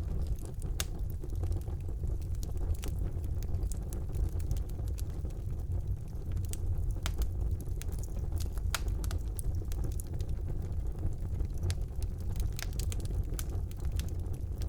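Wood fire burning in a fireplace: a steady low rumble of the flames with irregular sharp crackles and pops from the burning logs throughout.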